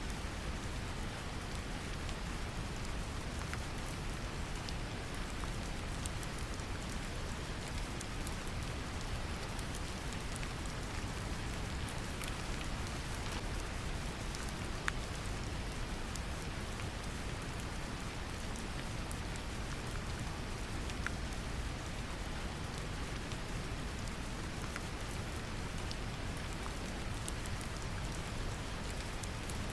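Steady brown noise with gentle rain mixed in, scattered faint drop ticks over the constant noise.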